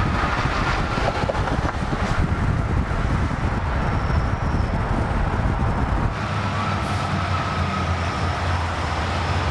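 Motor vehicle engine and road noise, a dense rumble that changes abruptly about six seconds in to a steadier low drone.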